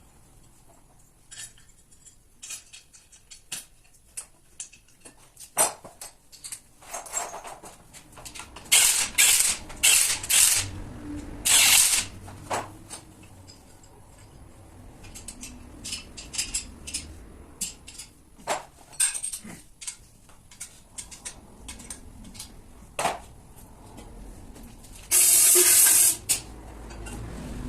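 Workshop sounds of work on a tractor cylinder head: scattered clicks and knocks of metal tools and parts, with several short bursts of hissing noise, the longest lasting about a second near the end.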